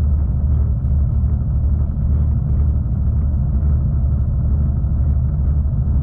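V/Line passenger train running at steady speed, giving a continuous low rumble with no breaks.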